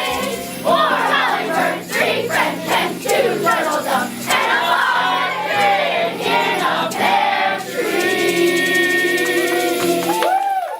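A school choir singing a holiday song with accompaniment, ending on a long held chord that drops away at the very end.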